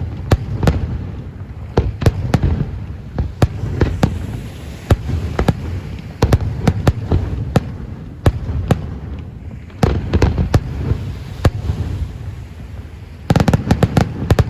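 Aerial fireworks going off: irregular sharp bangs and cracks over a continuous low rumble, with a quick rattling run of cracks near the end.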